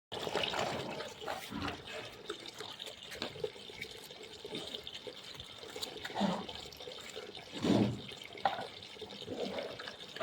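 Water running and splashing, with a few short louder sounds.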